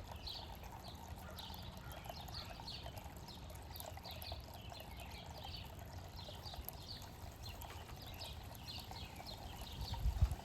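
Many small birds chirping continuously in short, quick, falling chirps over a low steady rumble. A brief louder low thump comes near the end.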